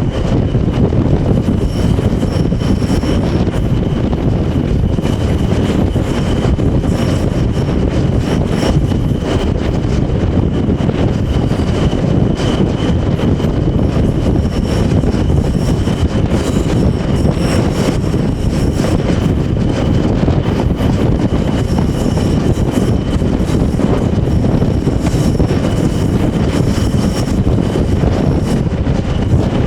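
Class 20 diesel locomotive D8188 (20188) hauling a train, heard from the carriages behind it. Its English Electric eight-cylinder engine runs steadily under load, with a constant high whistle over the low running noise and scattered clicks from the wheels.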